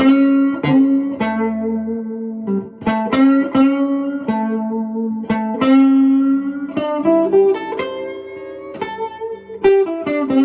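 Guitar phrase in a blues style, single picked notes with the minor third bent up a half step to the major third. Several notes slide up in pitch and some held notes waver.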